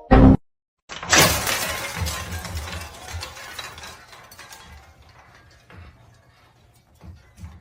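A sudden loud crash of something breaking about a second in, followed by scattered clinks and rattles that die away over the next few seconds.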